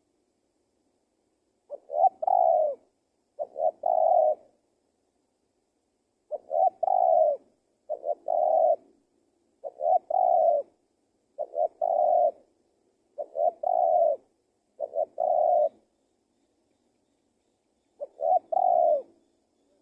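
Spotted dove (tekukur) cooing: nine short phrases, each a quick note followed by a longer coo, repeated every second or two with a longer gap near the end.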